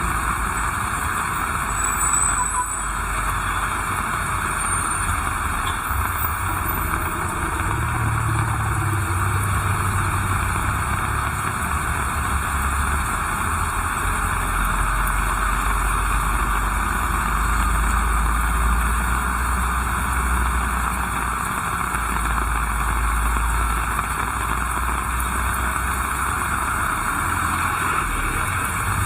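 Heavy rain falling steadily, an even hiss, with a low rumble underneath that grows stronger about a third of the way in and eases near the end.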